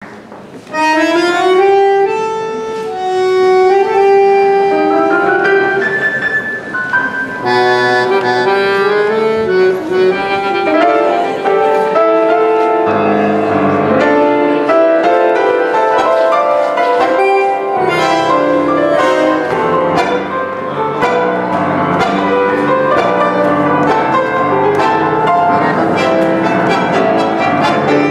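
Bandoneon and piano playing an Argentine tango live: the bandoneon enters alone about a second in with sustained reedy melody notes, and the piano joins underneath, filling out with a driving accompaniment.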